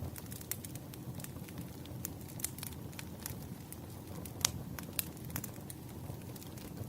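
Wood fire burning with a low steady rumble and irregular crackles and pops, the sharpest pop about four and a half seconds in.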